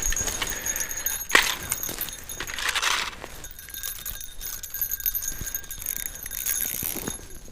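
Ice-fishing gear being handled while a hard-pulling hooked fish is reeled up through the ice hole: scattered light clicks and clinks, a sharp knock about a second and a half in, and a brief rustle about three seconds in, over a faint steady high whine.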